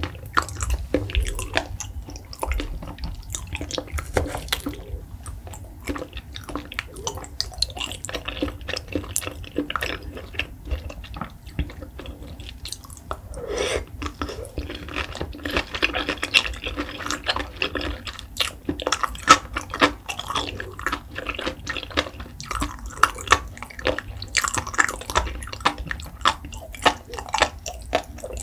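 Close-miked chewing of raw salmon sashimi and sushi: irregular mouth sounds made of many small clicks and smacks.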